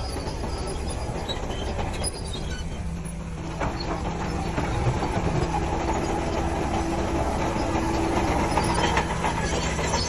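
Heavy diesel earthmoving machinery running with a steady low rumble and metallic clatter, growing louder about three and a half seconds in.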